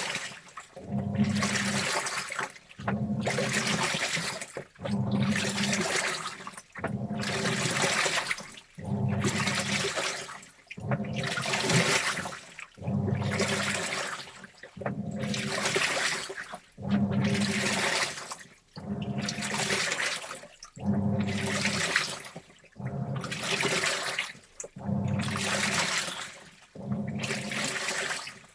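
Front-loading washing machine mid-wash, water sloshing through the tumbling load in regular surges about every two seconds, each surge carrying a low motor hum, with brief pauses between.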